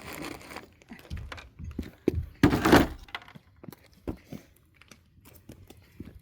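Knocks and thuds of pallet wood being worked by hand, with one louder noisy burst lasting about half a second, about two and a half seconds in.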